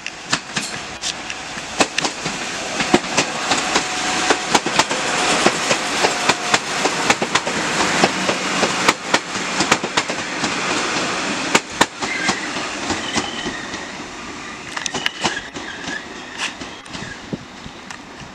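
Northern Class 195 diesel multiple unit running past on jointed track, its wheels clicking sharply over rail joints amid a steady rumble. The noise is loudest in the middle and eases off later, with faint thin wheel squeals near the end.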